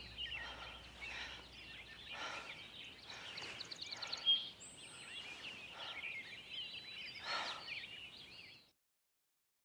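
Many small birds chirping and twittering at once, with a short, sharp whistled note about four seconds in; the birdsong cuts off suddenly near the end.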